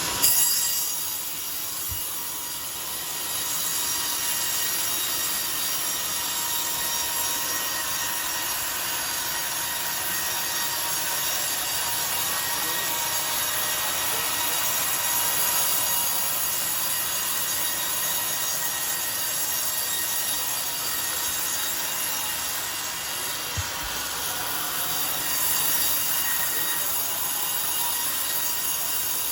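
Sawmill circular saw blade cutting lengthwise through a coconut palm log: a steady, bright cutting noise that runs on evenly, with a short loud surge just after the start.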